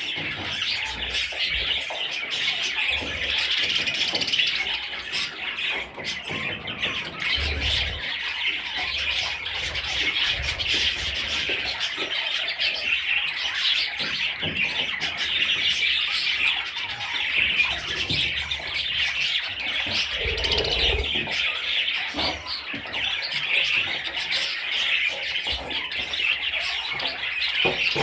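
A flock of budgerigars chattering and chirping without pause, many small calls overlapping.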